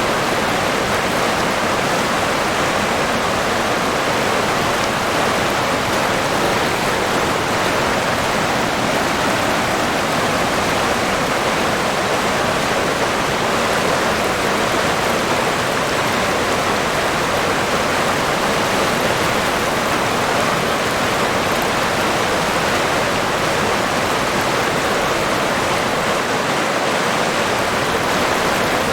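River water flowing and rushing over rocks in a steady, even wash of noise that does not change.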